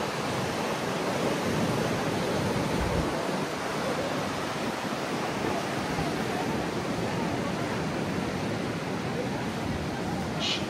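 Ocean surf breaking on the beach: a steady wash of wave noise, with wind gusting on the microphone. A brief high-pitched sound near the end.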